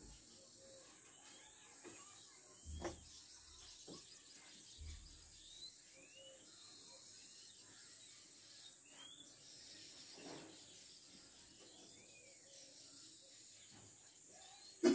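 Faint background of birds chirping here and there over a steady high hiss. A few soft knocks come between about three and five seconds in, and a sharp click comes at the very end.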